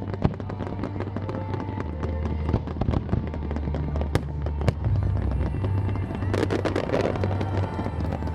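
Aerial fireworks bursting in repeated sharp bangs over the display's music soundtrack, with a dense spell of crackling about six and a half seconds in.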